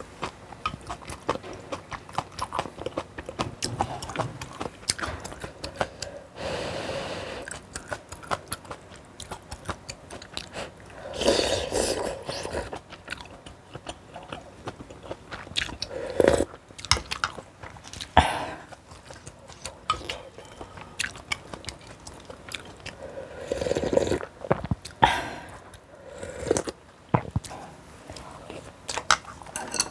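Close-miked sounds of a person eating: chewing and biting with crunches and wet clicks, and a few louder noisy bursts of about a second.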